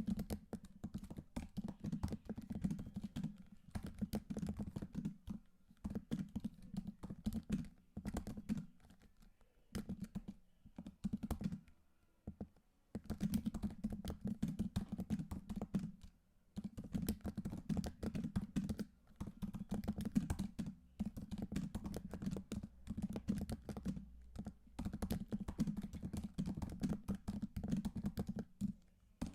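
Computer keyboard being typed on in quick runs of key clicks, broken by a few brief pauses.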